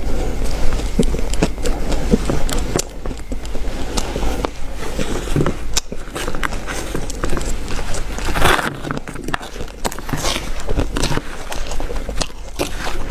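Ice being bitten and chewed: a dense run of crunches and crackles.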